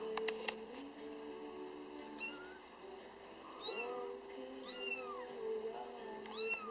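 Bengal kitten mewing: four short, high meows, each rising and falling in pitch, spaced about a second apart from about two seconds in, over soft background music.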